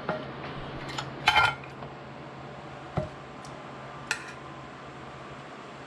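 Metal utensils clinking and clattering against cookware while tacos are prepared: a ringing clatter about a second in, then a couple of single clinks, over a steady low hum.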